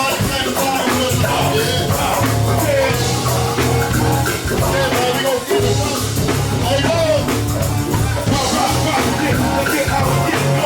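Live band playing: drum kit, guitar and bass under a wavering melody line, with singing.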